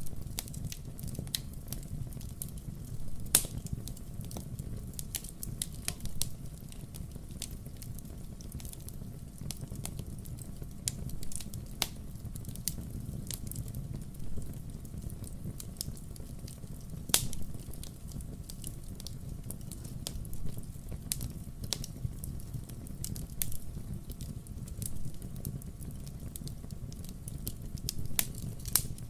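Burning firewood crackling and popping in irregular sharp snaps over a low, steady rumble of the fire, with a louder pop about 3 seconds in and another about 17 seconds in.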